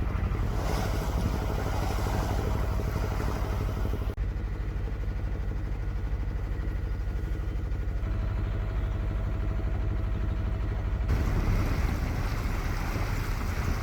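A sailboat's engine running steadily as it motors along, with wind and water noise. The wind-and-water noise drops abruptly about four seconds in and picks up again near the end.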